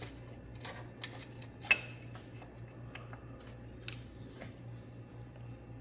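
A few scattered sharp clicks and light taps, the loudest about two seconds in, over a steady low hum.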